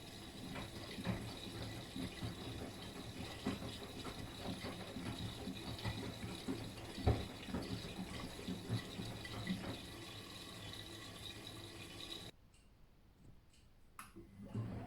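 Miele front-loading washing machine mid-wash: water sloshing with the laundry in the turning drum, with irregular soft knocks. The sound stops abruptly about twelve seconds in, a single click follows, and the machine sound returns at the very end.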